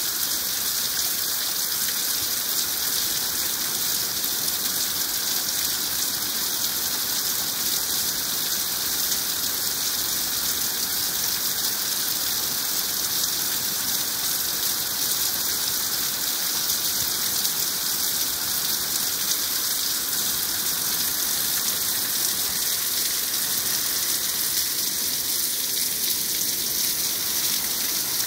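Heavy rain pouring down on trees and a wooden deck: a steady, dense hiss with no letup.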